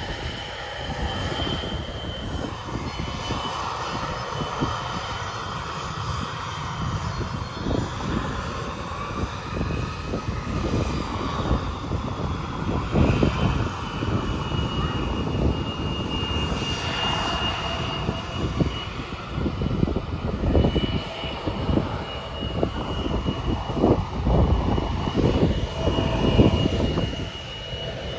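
Embraer E175 regional jet's turbofan engines whining steadily at taxi power, with a high whine that dips slightly in pitch about halfway through, over a low rumble. Wind buffets the microphone throughout.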